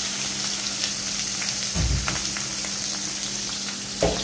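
Food frying in hot oil in a pan: a steady sizzle with constant fine crackles, broken by a low thud about two seconds in and a sharper one near the end.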